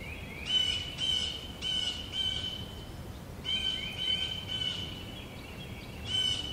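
A songbird calling repeatedly: short high calls, each with a brief rising start, about two a second in runs of three or four with pauses between, over a faint outdoor hiss.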